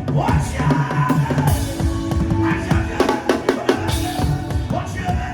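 A drum kit played hard and fast, with bass drum, snare and rim hits packed closely together, over held notes from other instruments in a band.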